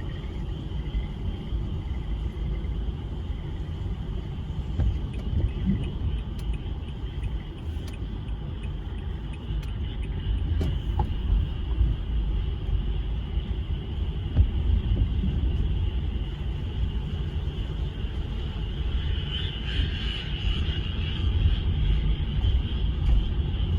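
Frog chorus as a continuous high-pitched trill, swelling about twenty seconds in, under a heavy steady low rumble.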